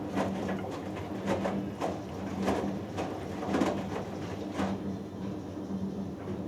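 Hoover Dynamic Next front-loading washing machine in its cotton wash, the drum tumbling so the wet laundry and water swish and slosh every half second or so over a steady motor hum. The sloshing stops about five seconds in while the hum goes on.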